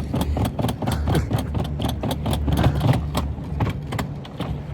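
Irregular rattling clatter over a steady low rumble.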